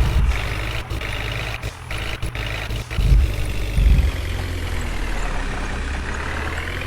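Heavy diesel engine running steadily, with a higher whine that dips in pitch and climbs again near the end.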